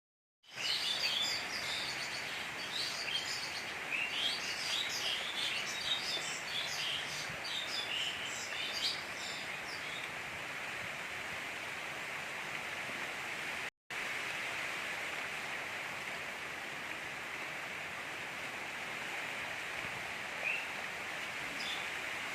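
Steady gentle rain, with small birds chirping busily over the first ten seconds and a couple of single chirps near the end. The sound drops out for a moment about fourteen seconds in.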